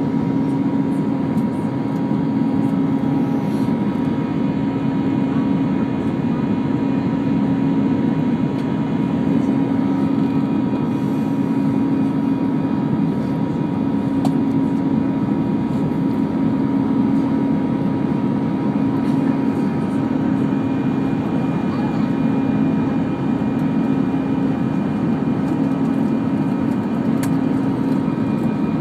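Airbus A319 cabin noise in flight: a steady rush of engine and airflow noise with a constant low hum running through it.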